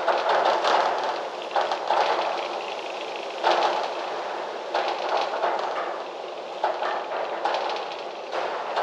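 Gusty wind rustling and shaking foliage, coming in sudden surges every second or two and easing between them, with quick clicking and rattling running through the gusts.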